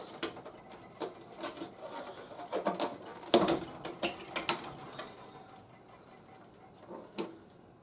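Hard plastic clicks and knocks as small gun parts are handled and snapped onto a HasLab G.I. Joe Classified Dragonfly toy helicopter. They come irregularly, the loudest a little over three seconds in and again at about four and a half seconds, with a lighter one near the end.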